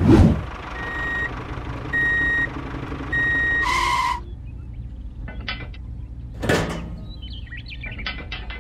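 A miniature toy tractor moving along with a steady low running noise. Over it sound three short high beeps like reversing beeps, each about half a second long, then a louder horn-like beep about four seconds in. Light plastic clicks and a brief rush follow as the model trailer is handled.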